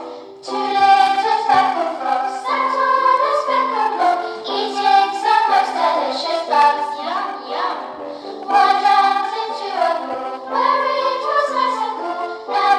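A children's song about frogs, with a group of voices singing over backing music, played from a computer; the singing pauses briefly just after the start.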